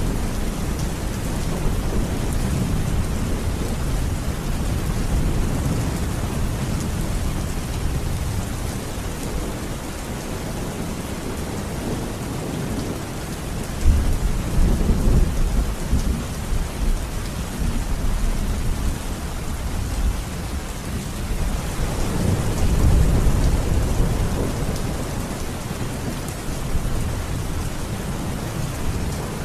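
Thunderstorm: steady rain with rolling thunder. A rumble breaks in suddenly about halfway through, and another swells a little later.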